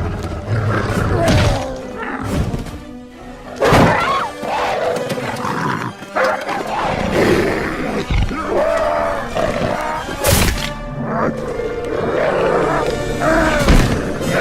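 Dramatic film-score music mixed with animal roars and snarls, broken by several heavy hits, the loudest about four, ten and fourteen seconds in.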